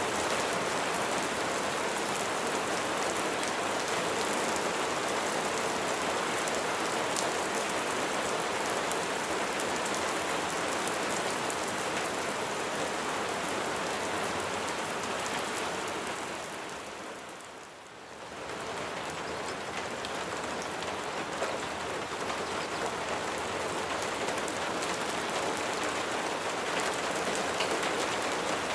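Steady rain pattering on a surface, a dense even hiss with fine drop sounds. About two-thirds of the way through it fades down for a couple of seconds and swells back.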